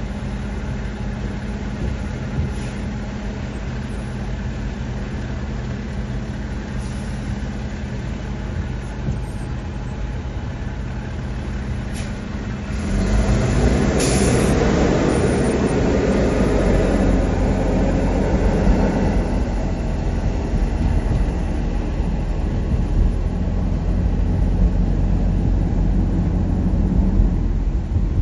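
Car engine idling with a steady low hum. About 13 s in it gets louder and rougher as the car moves off, with road noise building.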